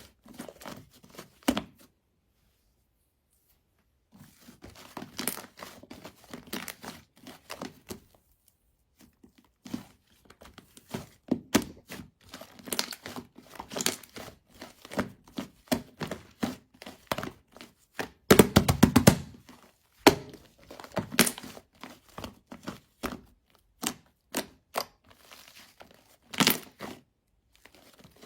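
Chocolate whipped-cream slime being pressed and squished by hand, giving irregular sticky clicks and popping air pockets. A fast run of crackles comes about two-thirds of the way through, after a short pause a couple of seconds in.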